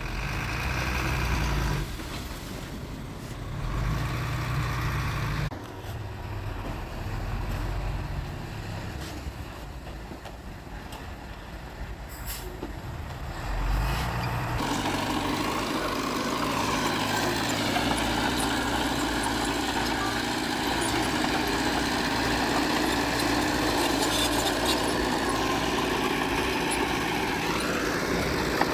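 Diesel engines of heavy earthmoving machinery, a bulldozer and dump trucks, running at work. For the first half a low rumble rises and falls; from about halfway the engine sound becomes louder and steady.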